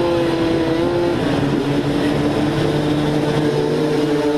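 Motocross bike engine running at steady revs, its pitch dropping slightly about a second in and then holding.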